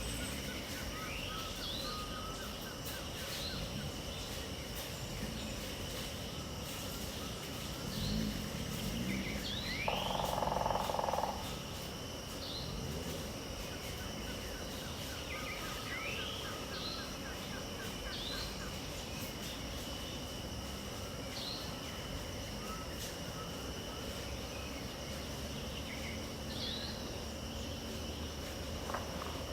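Wild dawn ambience. Insects keep up a steady high drone while birds give short rising calls, repeated every few seconds. About ten seconds in comes a louder, harsher call lasting about a second.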